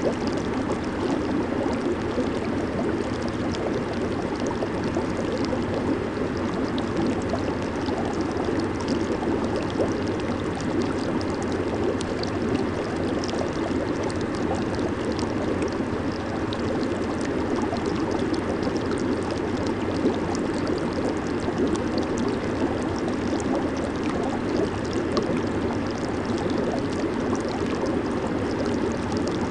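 Jacuzzi water bubbling and churning steadily, a dense low rush with many small bubble pops above it.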